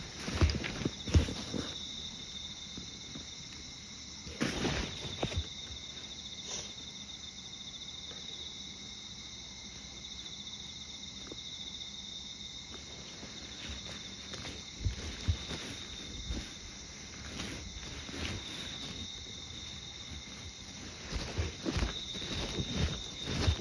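Insects chirring steadily at a high pitch, with a walker's footsteps at the start, a louder scuff about four seconds in, and the footsteps again through the last part.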